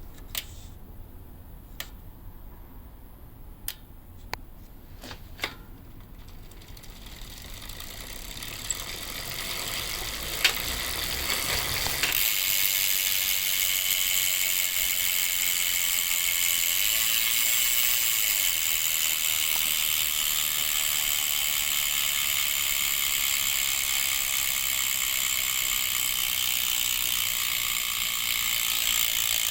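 Bontrager RaceLite rear hub's freehub ratcheting as the wheel freewheels: a few separate clicks at first, building to a steady, fast continuous buzz from a little before halfway through.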